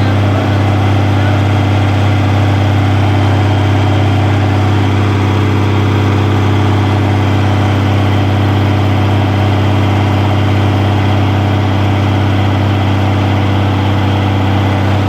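A home-built tractor-pull tractor's engine running loud and steady at an even idle, with a deep drone and no change in speed.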